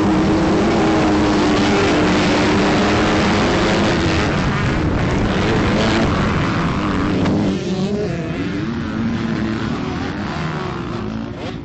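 Dirt bike engine running at a steady pitch under a heavy rushing noise. About two-thirds of the way through it gets quieter and its pitch begins to waver up and down.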